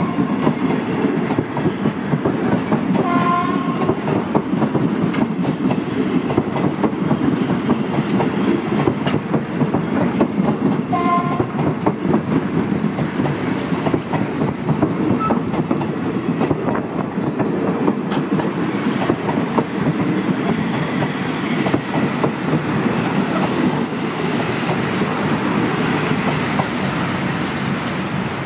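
Passenger coaches of a Thai ordinary train rolling past close by on a sharp curve: a steady rumble and clatter of wheels over the rail joints, easing a little near the end as the last coach goes by. Two short high tones sound about three and eleven seconds in.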